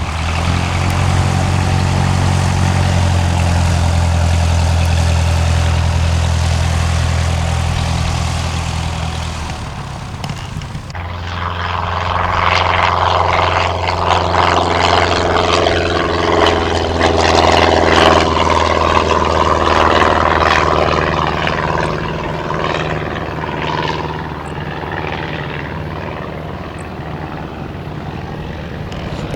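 Cessna 162 Skycatcher's single four-cylinder engine and propeller running steadily with a deep drone. About ten seconds in, the drone drops back and a louder, wavering rush of propeller and air noise takes over.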